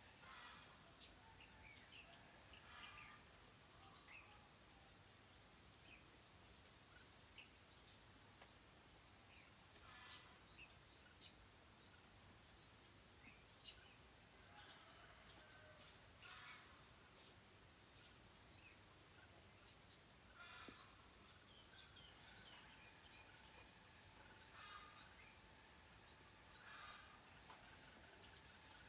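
An insect, cricket-like, trilling high and fast in repeated bouts of one to three seconds separated by short pauses, with faint bird chirps in the background.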